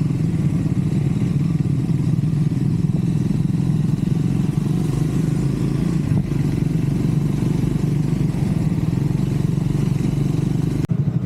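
Triumph Scrambler 400 X's single-cylinder engine running steadily, with an even level and no clear revving, and a brief dip just before the end.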